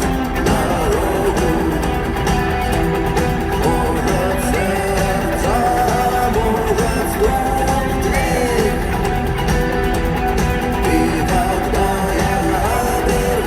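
Live rock band music at an arena concert: electric guitars, bass and drums playing a song at a steady, loud level.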